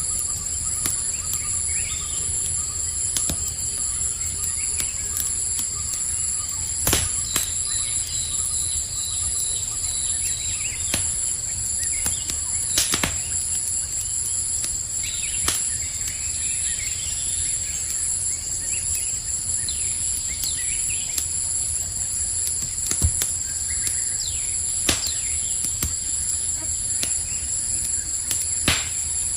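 Campfire crackling with sharp irregular pops over a low rumble, set against the continuous high trilling of crickets, with a few faint bird chirps.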